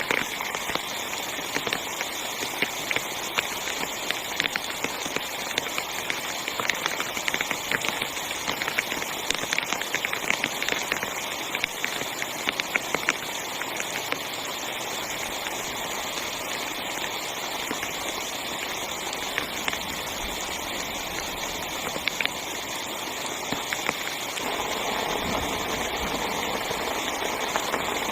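Heavy rain drumming on a tent, a dense hiss full of individual drop hits. About 24 seconds in, a deeper steady rush swells up beneath it.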